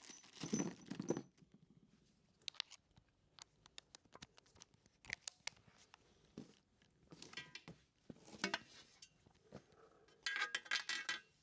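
Rummaging through mounting hardware: scattered light clicks, rustling and small metal clinks of lag bolts being handled, with a louder flurry near the end.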